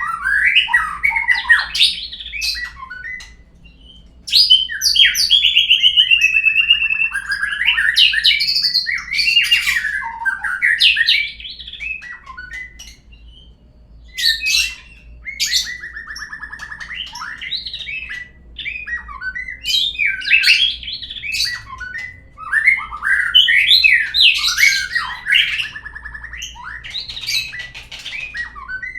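Murai (white-rumped shama) song, played as a lure call to set other birds singing: loud, varied whistled phrases with rising and falling notes and chattering runs, coming in bursts of a few seconds with short pauses between.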